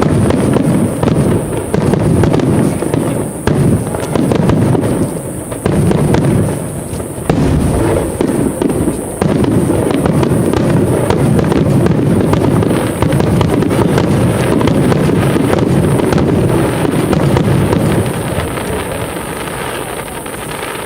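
Fireworks display: aerial shells bursting in a dense, rapid barrage of overlapping booms, loud throughout and easing off over the last few seconds.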